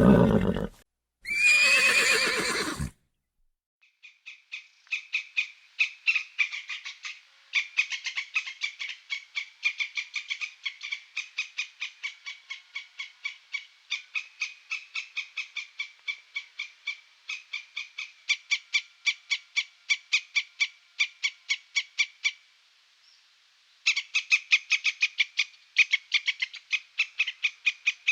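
A horse whinnying at the start. From about four seconds in, an animal calls in a long, even series of short high-pitched notes, about four a second, with a brief pause near the end.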